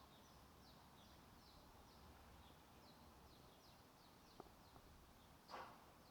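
Faint birdsong: a steady run of short, high, downward chirps, several a second. A small click comes past the middle, and a louder brief sound near the end.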